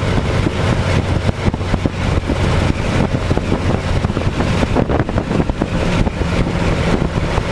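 Ford Model T's four-cylinder engine running steadily at highway speed, heard under heavy wind buffeting on the microphone of the open car.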